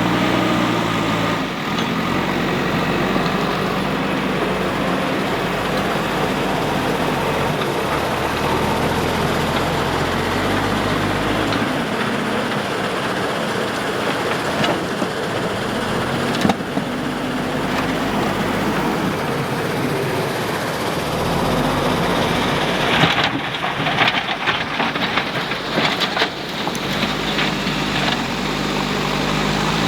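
Heavy diesel engine of earthmoving machinery running under load, its pitch stepping up and down several times as the revs change. About 23 seconds in comes a run of sharp knocks lasting a few seconds.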